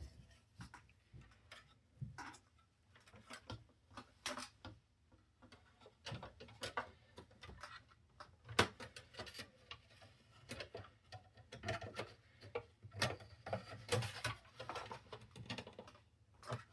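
Irregular plastic clicks, taps and light knocks of a CD changer's parts being handled and fitted back together by hand.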